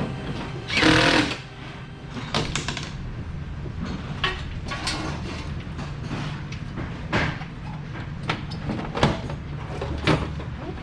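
Scattered sharp knocks and clatter, as of tools and parts being handled, over a steady low hum.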